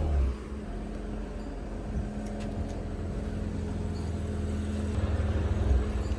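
Car engine running at a steady idle, a low even hum with a constant drone.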